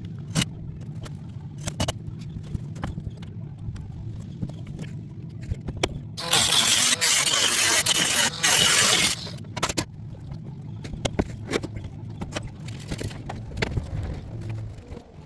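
Metal roofing work: scattered clicks and knocks over a steady low hum, with a loud noisy burst lasting about three seconds in the middle, broken once near its end.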